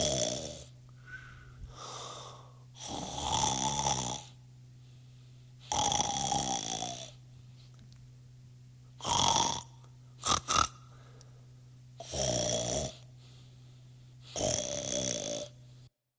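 A person snoring, with a loud snore about every three seconds and two short snorts in quick succession just past the middle, over a steady low hum.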